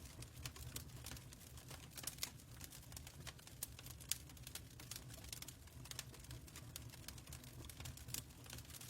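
Fireplace crackling: irregular sharp pops and clicks over a steady low rumble of the fire.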